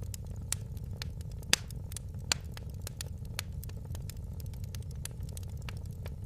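Wood fire burning in a fireplace: irregular sharp crackles and pops, the loudest about a second and a half in, over a steady low rumble of the flames.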